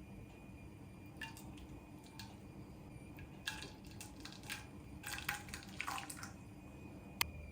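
Kitchen work with water: scattered light clicks and taps and short splashy sounds, busier in the middle, over a faint steady hum.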